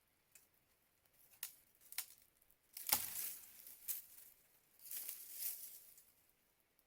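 Crinkly rustling in two longer swishes, with several sharp clicks between them.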